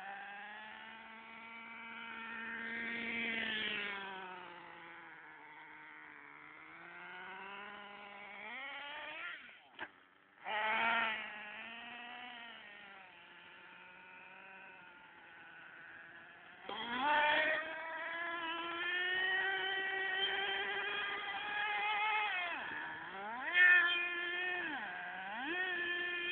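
HIMOTO MegaP MXT radio-controlled monster truck's engine revving up and down as it is driven, its pitch rising and falling with the throttle. It drops out briefly about ten seconds in and runs louder in the second half.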